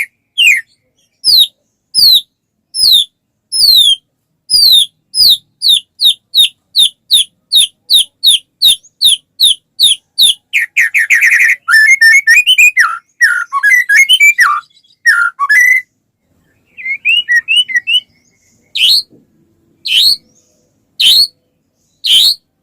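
White-rumped shama singing: a run of loud, quick falling whistle notes about two a second, breaking into a fast trill and jumbled chattering phrases around the middle. After a short pause come a few soft chips, then single loud falling whistles about one a second.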